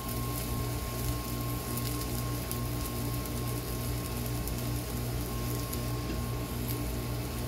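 Diced food frying quietly on a discada plow-disk wok over charcoal: a soft sizzling hiss with small crackles. Under it runs a steady low hum.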